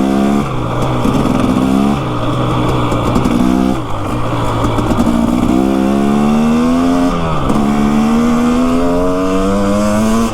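Off-road motorcycle engine under throttle, its pitch rising and falling several times as the rider works over rough ground, then climbing steadily for the last few seconds.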